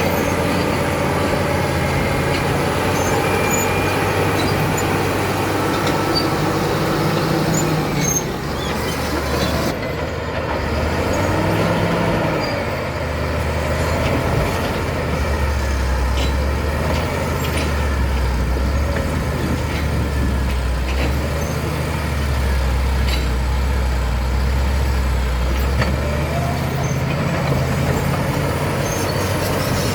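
Caterpillar D7 bulldozer's diesel engine running under changing load, its drone shifting deeper and stronger through the middle stretch, with a few sharp knocks.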